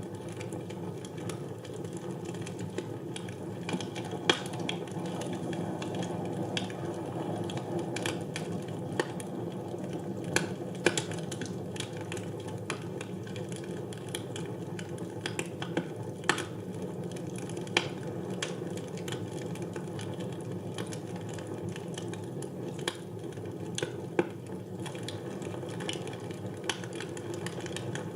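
Wood fire burning in a fireplace: a steady low rush of flame with irregular sharp crackles and pops from the burning wood.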